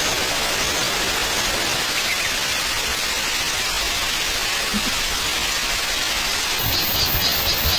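Steady, even rushing noise with no clear pitch. Near the end, a fast high-pitched pulsing of about five beats a second joins it.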